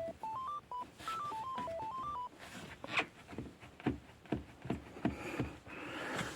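A short electronic melody of single beeping tones, stepping up and down in pitch like a simple phone ringtone, for the first two seconds or so. It is followed by a few scattered clicks and knocks.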